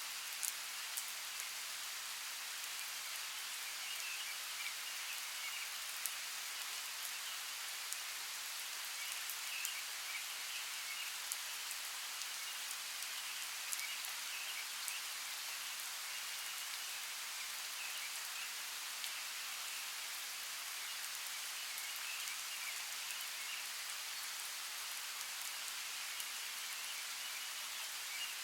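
Steady rain falling, an even hiss with scattered individual drops ticking through it. Behind it a faint chirring comes and goes.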